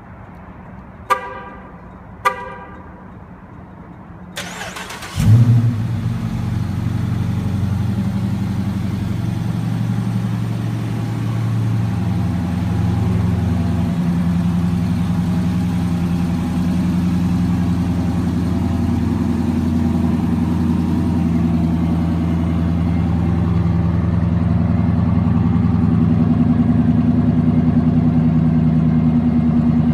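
Two short car-horn chirps, then the starter cranks briefly and the engine catches about five seconds in with a loud flare of revs. It settles into a steady idle through the exhaust, slowly growing a little louder.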